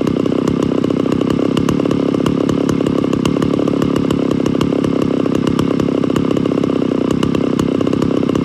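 Small electric chainsaw-chain sharpener running steadily with a loud motor buzz and a fast rattle, its grinding stone dressing a cutter tooth on a badly dulled chain.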